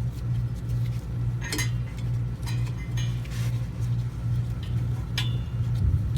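Scattered metallic clinks and taps of exhaust hardware as a bolt is worked into a muffler-delete pipe that is not lining up, over a low hum that pulses about twice a second.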